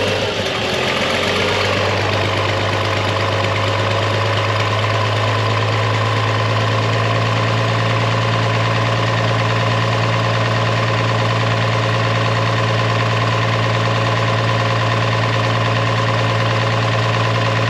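Old gasoline tractor engine idling steadily on partial choke as it warms up after a cold start. The pitch shifts for the first couple of seconds, then holds even.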